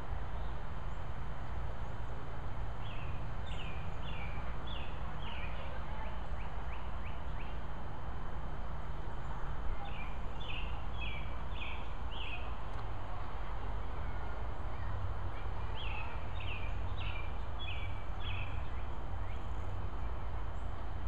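A bird singing a short phrase of about five quick, high notes, three times about six to seven seconds apart, over a steady low rumble.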